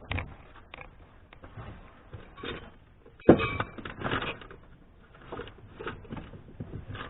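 Plastic interior roof trim of a car being worked loose by hand and with a trim-clip tool: scattered clicks and light knocks, with one sharp knock a little past three seconds in.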